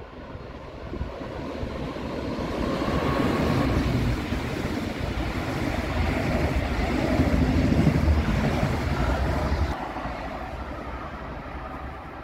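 Double-deck regional express train passing close at speed, a swelling rumble of wheels on rail and rushing air that peaks as the coaches go by. It cuts off abruptly about ten seconds in, leaving a quieter steady rush.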